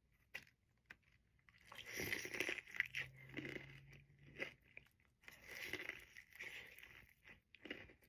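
Close-up crunching and chewing of a breaded fried chicken tender, in two spells of bites after a quiet start with a few soft mouth clicks.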